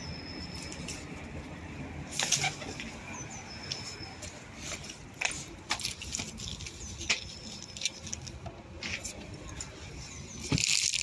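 Pigeons' wings flapping in short bursts, with scattered sharp taps and a louder flurry of wingbeats near the end.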